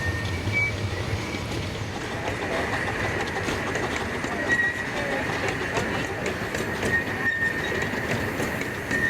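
A 15-inch gauge miniature train running on the track, with a steady rumble and clicking of the wheels over the rails. The wheels squeal in short, high, steady notes several times.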